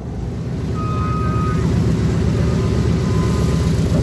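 Aircraft engine running, a steady, loud mechanical drone that grows slightly louder.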